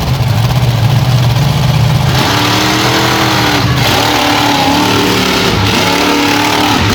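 Engine idling with a steady note, then revved three times in quick succession, starting about two seconds in.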